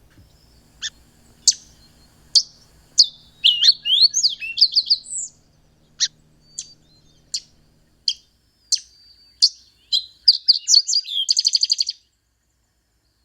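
Thick-billed fox sparrow singing. Sharp, high chip notes spaced about a second apart are broken by a quick warbled phrase of sweeping notes a few seconds in, and the song ends with a fast trill near the end.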